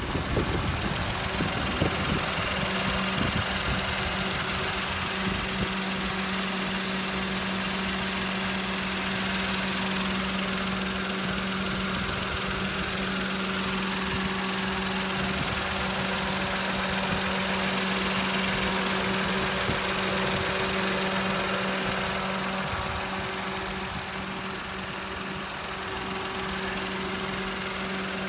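Mitsubishi Mirage's 1.2-litre MIVEC three-cylinder engine idling steadily, heard close up in the open engine bay, with a steady hum that sets in about two seconds in.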